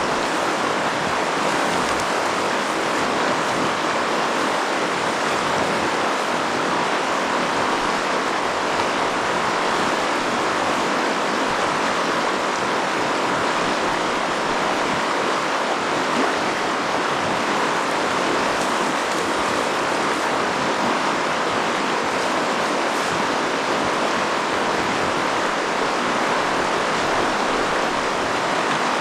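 River rapids rushing: a steady, unbroken sound of fast water.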